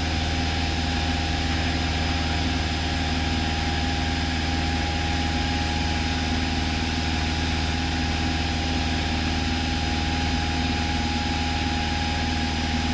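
Steady drone of a light single-engine aircraft's piston engine and propeller in cruise, heard from inside the cabin, with an even hum and several steady tones that do not change.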